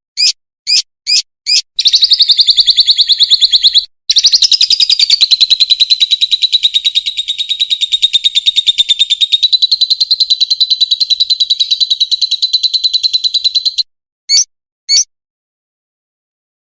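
Songbird singing: four quick separate notes, then a long, very fast trill held near one pitch for about twelve seconds with a brief break a couple of seconds in, ending with two short single notes.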